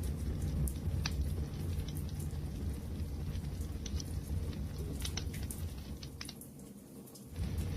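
Wood fire crackling: scattered sharp pops and snaps over a steady low rumble of burning. Near the end the rumble briefly drops away for about a second, then comes back.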